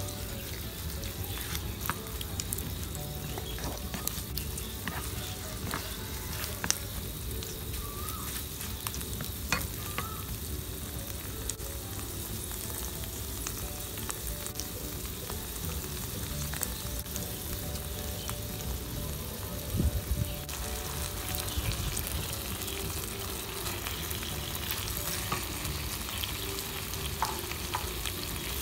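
Tofu cubes with dried chillies and garlic sizzling in oil and gochujang sauce in a nonstick pan, stirred and scraped with a wooden spatula, with scattered clicks and occasional knocks of the spatula on the pan. The sizzle grows louder and brighter about two-thirds of the way in.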